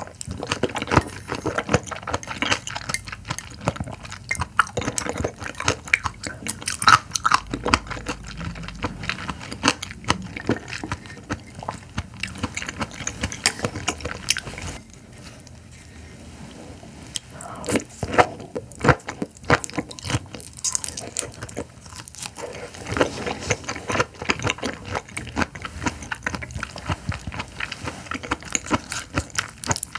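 Close-miked eating: wet chewing of a raw oyster, a quieter pause about halfway through, then biting and chewing of a raw carabinero shrimp near the end.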